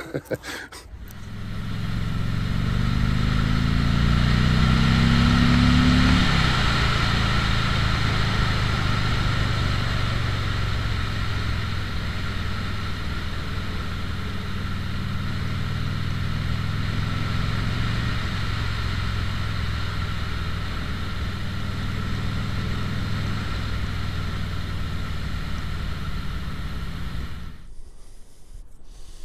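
Three-wheeler's engine pulling away, its pitch rising for about five seconds, then dropping suddenly at a gear change and running steadily at cruising speed with a steady rush of noise over it. It cuts off near the end.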